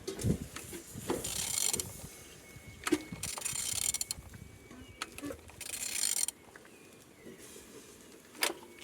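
Ford 2.2 Puma diesel engine being turned over by hand: clicks of metal parts and three stretches of rasping mechanical noise as the crankshaft is rotated. It turns over without seizing.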